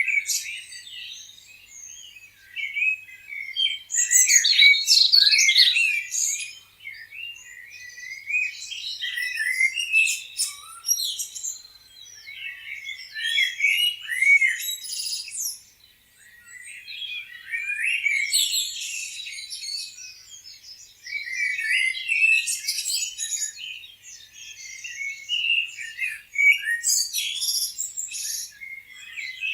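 Several songbirds chirping and trilling, in bursts that come and go every few seconds.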